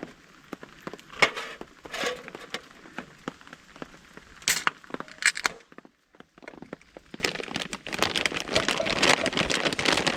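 Scattered sharp clicks and short rustles, a brief break, then several seconds of dense crackling rustle.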